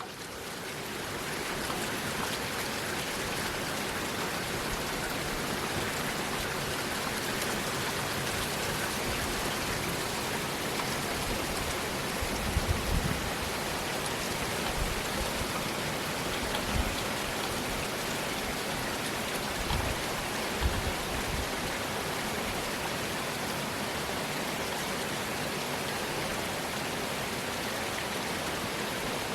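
Steady rain from a rainstorm, an even hiss of falling drops, with a few brief low thumps around the middle.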